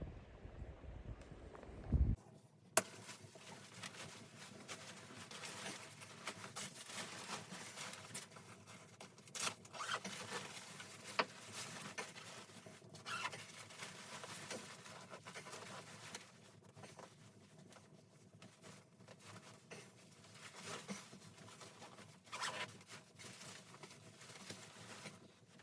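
A low rumble for about two seconds, then after an abrupt cut, quiet rustling with scattered light clicks and knocks, like gear being handled.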